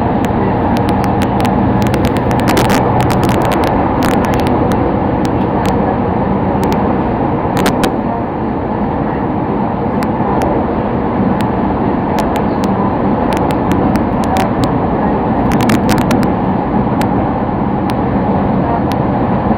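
Sotetsu Line commuter train running at speed, heard from inside the carriage: a loud, steady rumble with scattered sharp clicks.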